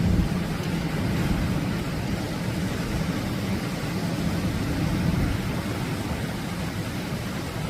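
Atlantic surf breaking in a steady low rumble, with wind buffeting the microphone.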